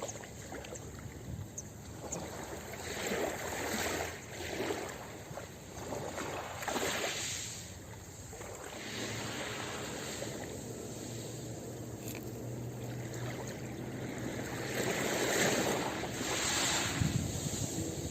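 Ocean surf breaking on a beach: a continuous rushing wash of water that swells and fades as successive waves come in and draw back.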